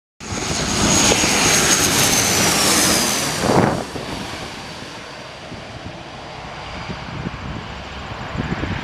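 Jet airliner passing close by: loud engine noise with a high whine that drops in pitch about three seconds in, then a quieter, fading rumble.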